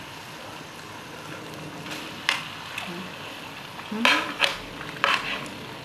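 Food sizzling steadily on a hot grill pan, with metal tongs clicking against the pan a few times.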